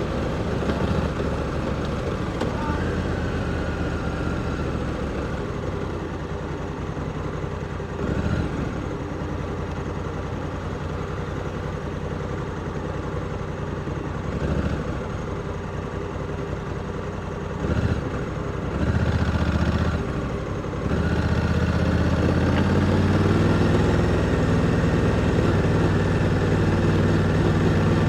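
Honda Africa Twin 1100's parallel-twin engine running at low revs while riding slowly. There are a few short throttle blips about two-thirds of the way in, then it pulls at higher revs near the end.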